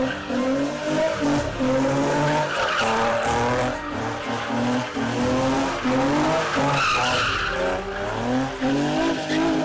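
Infiniti G35 coupe's V6 revving hard while its rear tyres spin and squeal through donuts, the engine note rising and falling over and over.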